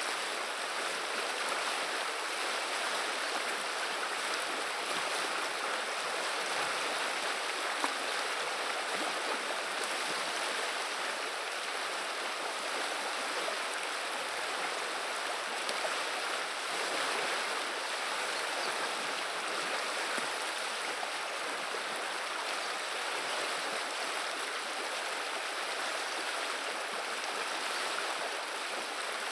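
River water running and babbling steadily over its bed.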